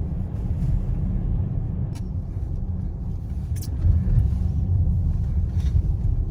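Car driving, a steady low rumble of engine and tyres heard from inside the cabin, with a few light clicks.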